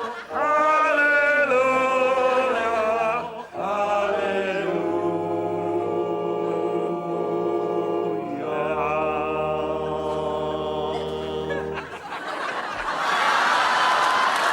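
A choir singing a hymn, the voices holding long sustained chords, with two brief breaks between phrases.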